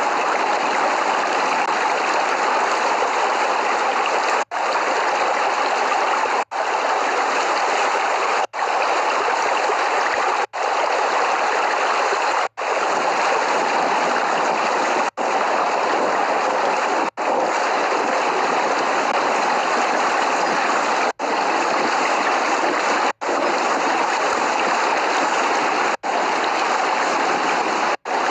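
Steady downpour of rain, an even rushing hiss with no thunder, broken by brief cut-outs to silence about every two seconds.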